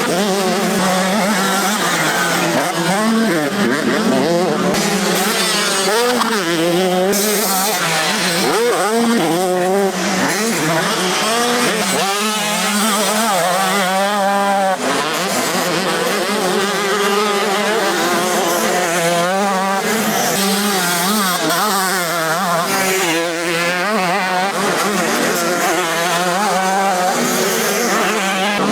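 Several motocross bikes racing, their engines revving up and falling back over and over, with overlapping rising and falling whines as the riders work through the gears. A steady low drone runs underneath.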